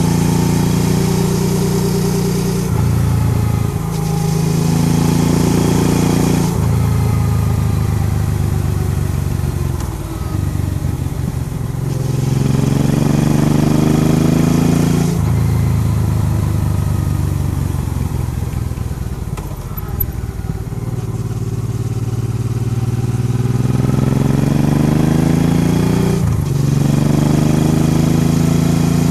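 Honda Transalp XL650V's V-twin engine under way, heard from the bike. Its pitch climbs as it pulls and drops sharply at several upshifts. It falls away while slowing around the middle, then pulls up again, with a steady rush of wind throughout.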